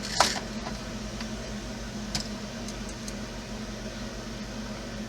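A few light clicks and taps of small plastic RC parts being worked by hand with a screwdriver, the loudest just after the start and a few fainter ones over the next three seconds, over a steady low hum.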